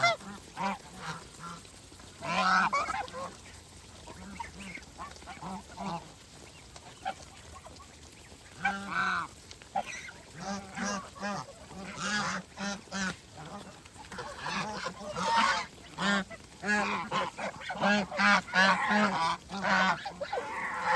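A flock of domestic geese honking in many short calls, some overlapping. The calls are sparse in the first half, then come thick and fast in the second half.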